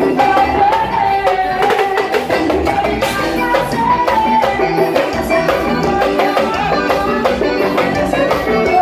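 Band music, an instrumental passage: a melody line wanders over steady drums and percussion, with no singing.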